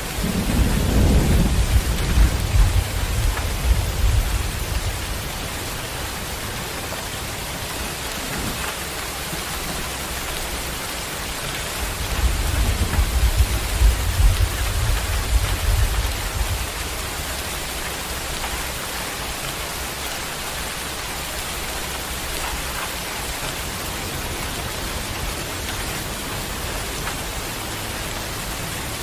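Heavy tropical rain falling steadily. Two low rolls of thunder rumble through it, one right at the start lasting about five seconds and another about twelve seconds in lasting about four seconds.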